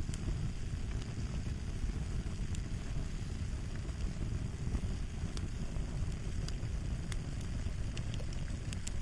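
Fire crackling: a steady low rumble of burning with scattered sharp pops and crackles on top.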